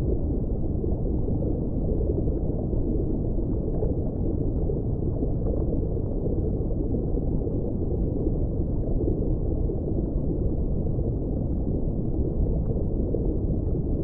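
Underwater ambience: a steady, muffled low rush of water, with nothing clear in the upper range and no distinct dolphin whistles or clicks.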